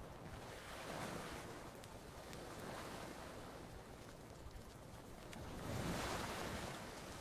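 Gentle ocean waves washing onto a beach, the surf swelling about a second in and again, louder, around six seconds in. A few faint campfire crackles pop now and then.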